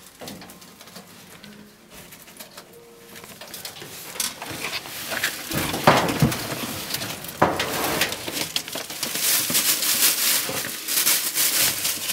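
Rustling, crinkling and clicking as the dryer's flexible vent tube is handled to get a trapped starling out. It is quiet at first, then the clatter starts about four seconds in and grows busier and brighter near the end.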